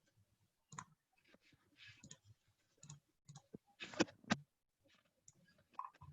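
Faint, irregular clicks and taps of someone working a computer's mouse and keyboard, with a louder cluster of clicks about four seconds in.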